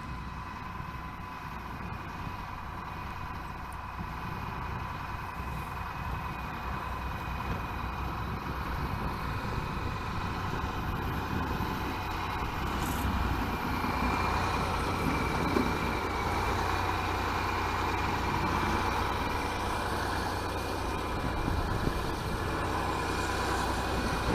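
Motor vehicle running: a low engine rumble with a steady high whine, slowly growing louder.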